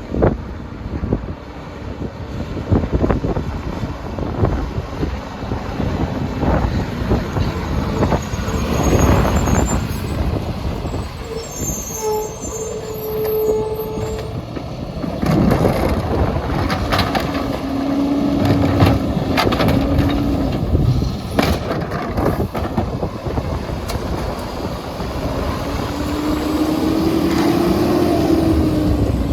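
Mack MR tag-axle garbage truck with a McNeilus rear-loader body working, its diesel engine running, with scattered knocks and a few short whining tones.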